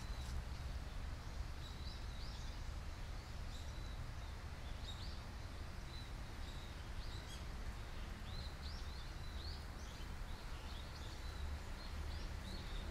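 Small birds chirping in short, quick repeated calls over a steady low background rumble of outdoor ambience.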